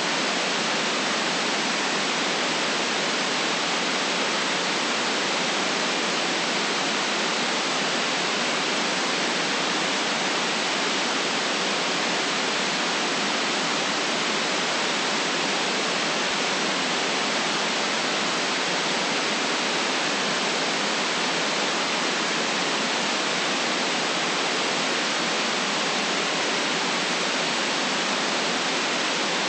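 Generated white noise: a steady, unchanging hiss with its deepest bass and highest treble cut away.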